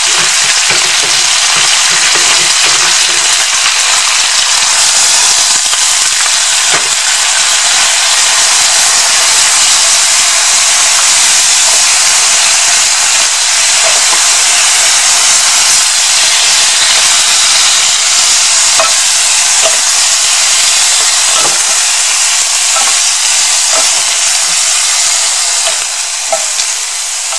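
Chicken bones frying loudly in hot oil as they are stir-fried: a steady, dense sizzle with a few faint clicks from the stirring.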